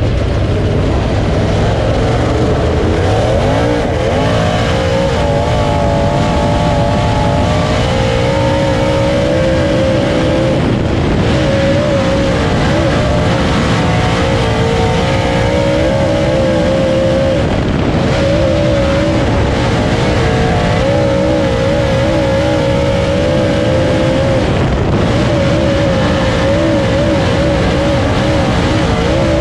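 Dirt late model race car's V8 engine heard from on board, running hard under a steady rush of noise, its pitch rising and falling again and again as the throttle comes off and back on.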